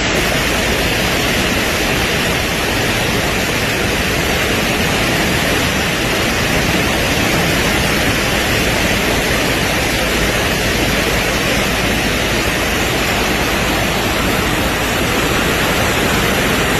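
A loud, steady rushing of a torrent of floodwater, unbroken throughout.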